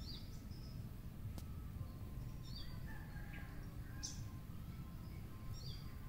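Songbirds chirping: a few short, high, separate chirps scattered through, the clearest a quick downward sweep about two-thirds of the way in, over a steady low background rumble.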